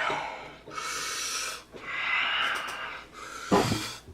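A person breathing hard in and out through the mouth and nose in several long, rasping breaths, with a sharper, louder breath about three and a half seconds in. It is the heavy breathing of someone whose mouth is burning from very spicy noodles.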